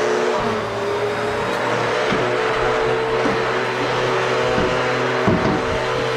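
Vacuum cleaner motor running steadily with a broad rushing hiss, its pitch bending briefly a few times.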